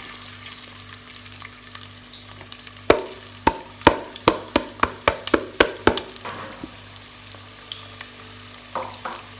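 Chopped onions sizzling in hot vegetable oil in a sufuria, with a steady frying hiss. A spoon stirs them and knocks against the pot about ten times in quick succession, from about three to six seconds in.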